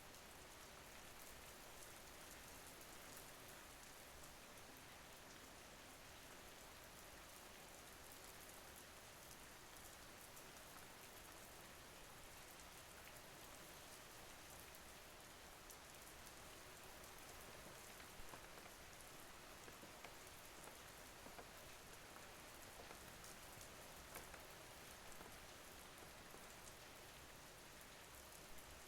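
Faint, steady rain falling, an even hiss with scattered drop ticks, a few of them slightly louder.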